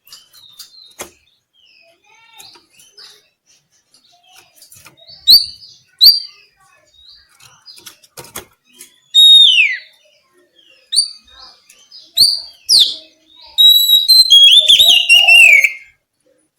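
Oriental magpie-robin (kacer) singing: soft twittering at first, then loud sharp whistled notes, a long falling whistle about nine seconds in, and near the end a fast, varied warbling phrase.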